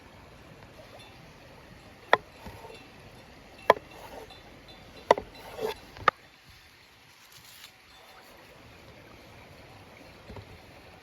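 Four sharp knocks about a second and a half apart, with a few softer clatters after them, over a faint steady background hiss.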